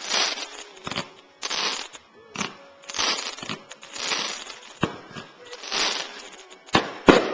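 Fireworks going off: repeated short bursts of crackling hiss, roughly one a second, with several sharp bangs among them and the loudest pair of bangs near the end.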